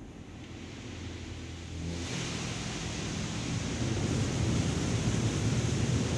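Automatic car wash equipment working over the car, heard from inside the cabin: a steady rushing hiss of water spray that grows louder about two seconds in.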